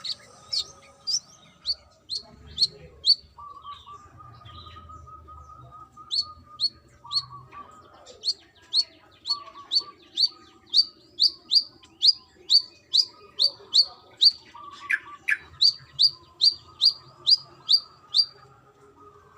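Brown-throated sunbird (kolibri kelapa) calling: a long series of sharp, high chip notes, each sliding down in pitch, at about two to three a second. The notes break off for a few seconds early on, then resume and run steadily for most of the rest.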